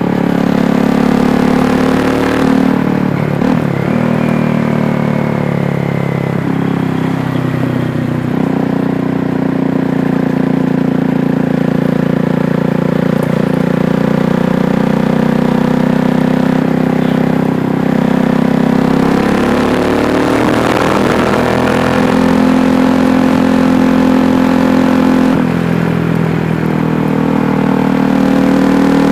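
KTM Duke 390's single-cylinder engine running while riding. The note holds mostly steady, with a few shifts in pitch as the revs change.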